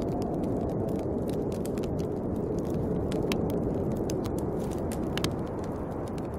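Snowstorm wind blowing steadily, with a wood fire crackling over it in scattered sharp pops, one louder pop about five seconds in.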